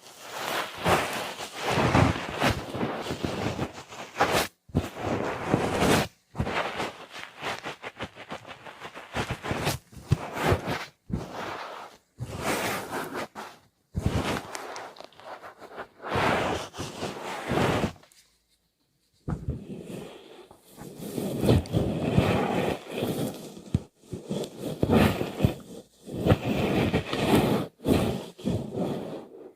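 Close-miked ASMR trigger sounds: bursts of scratching, scraping and rustling right at the microphone, broken by abrupt cuts between takes.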